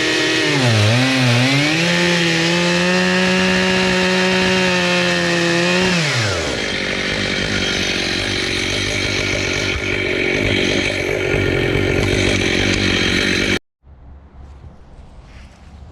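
Chainsaw running at high revs, its pitch dipping twice about a second in as it bogs under load, then winding down about six seconds in. A rougher, noisy running sound follows until the sound drops away abruptly near the end, leaving quiet with a few light clicks.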